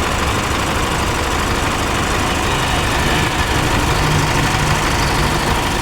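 Isuzu Mu-X diesel engine idling steadily. The engine is being checked for a loud turbo noise whose cause has not been found.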